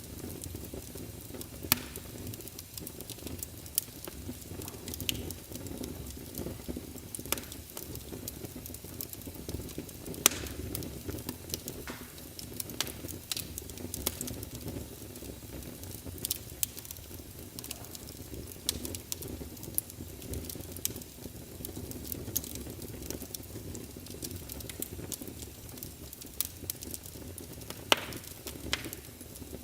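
Wood fire burning in a fireplace: a steady low hiss with frequent irregular crackles and pops, a few sharper pops standing out about ten seconds in and near the end.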